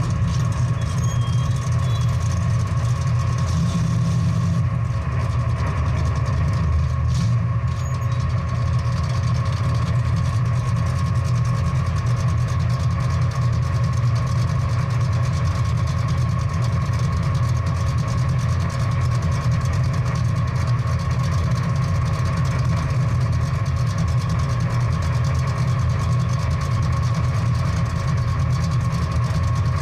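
Big-block V8 muscle car engine idling with a steady deep rumble.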